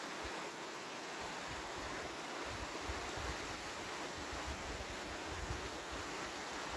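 Steady rush of a waterfall's falling water, with wind buffeting the microphone in low gusts from about a second in until near the end.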